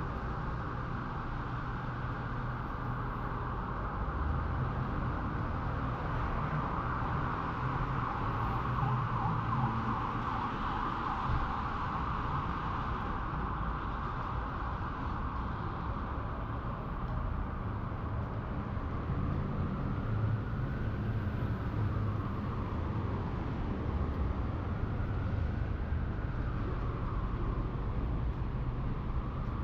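Downtown street ambience in the rain: a steady hiss and the low rumble of passing traffic. In the second half a faint tone slowly rises and falls, over and over.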